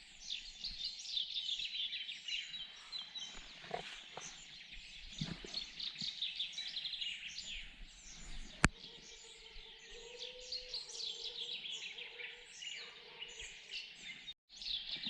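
Many small birds chirping and singing together in a dense chorus of rapid short calls, with one sharp click just past the middle.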